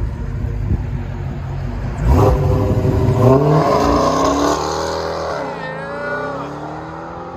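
Dodge Challenger Hellcat's 6.2 L supercharged Hemi V8 through a straight-pipe exhaust with valve delete, rumbling, then launched hard about two seconds in. The revs climb, drop at a gear change about halfway through, climb again and fade as the car pulls away.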